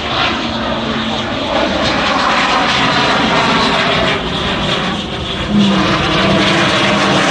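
Mirage 2000 fighter's single jet engine, a loud continuous roar as the jet flies its display; it grows a little louder about five and a half seconds in.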